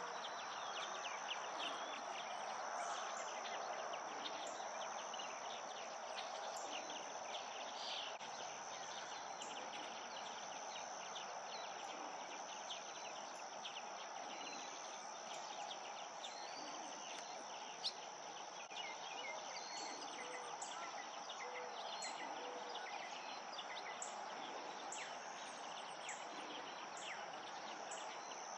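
Summer insect chorus: a steady high-pitched drone over a dense hiss, with many short chirps throughout. A single sharp click comes a little past the middle.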